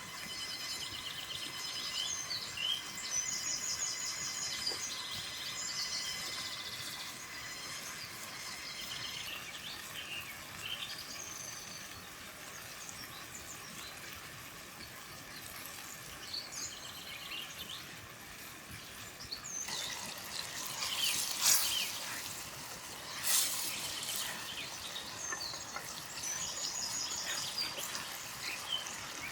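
Birds chirping and trilling over a steady outdoor hiss, with short repeated calls coming and going. About twenty seconds in there is a louder patch of rustling, crackly noise lasting a few seconds.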